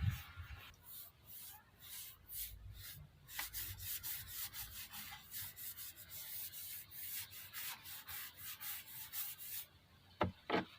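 Quick, repeated back-and-forth rubbing strokes on a wooden surface, like hand-sanding a timber tabletop, then a couple of sharp knocks near the end.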